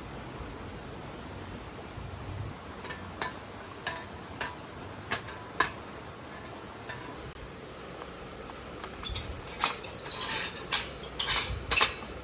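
Hard, light objects clinking and tapping together with a short metallic ring, as camping gear is handled. The taps are a few at a time at first and come quicker and louder over the last few seconds.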